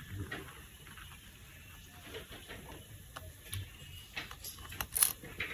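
Light clicks and taps of plastic toy parts being handled and fitted together, scattered irregularly, with one sharper click about five seconds in.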